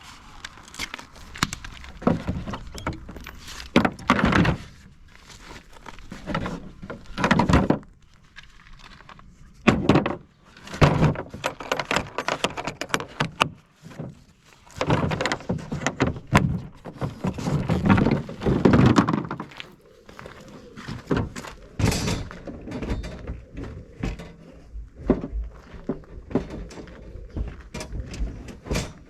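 Work gear being stowed away in a van: a run of irregular knocks, thuds and rattles, with rustling and scraping between them.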